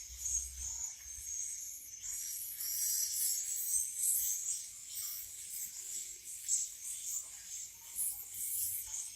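Young swiftlets chirping: a dense, continuous run of short, high-pitched twitters.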